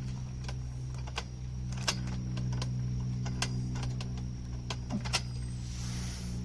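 Irregular small metallic clicks and taps of wing nuts and aluminium chainsaw-mill parts being handled and threaded on by hand, over a steady low hum.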